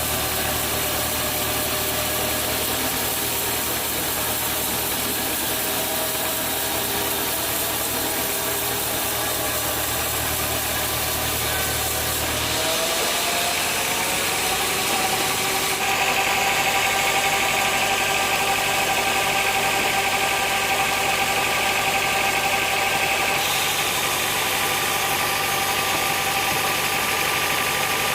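Sawmill machinery running steadily with a continuous mechanical hum. About thirteen seconds in, the deep hum drops away and a tone glides upward. From about sixteen seconds a higher whine joins and it gets a little louder.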